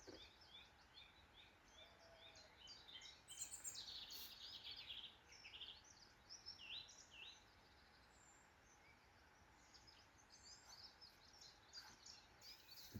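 Faint birdsong: many short chirps and trills from small birds, busiest in the first half, fading to almost nothing for a couple of seconds past the middle, then a few scattered calls again near the end.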